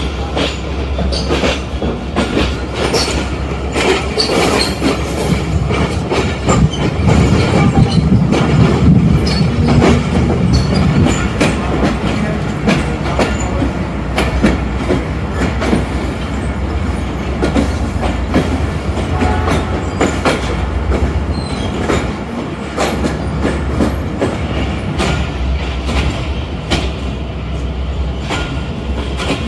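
Passenger train running over rail joints and pointwork as it pulls into the station, wheels clicking irregularly over a steady low rumble, with a few brief wheel squeals.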